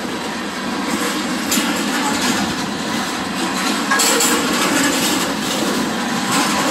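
Freight train tank cars rolling past: a steady rumble of steel wheels on rail, with a few clanks as the cars go by.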